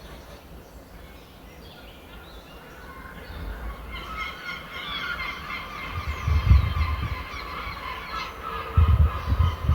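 Birds calling: faint at first, then from about three seconds in a dense chorus of many overlapping pitched calls. Heavy low thumps come in twice, around the middle and near the end, and are the loudest thing heard.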